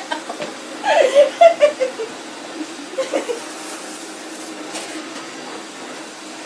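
A man laughing, a short run of falling 'ha-ha' notes about a second in and a brief chuckle around three seconds, over the steady hum of an AEG UltraFlex vacuum cleaner running.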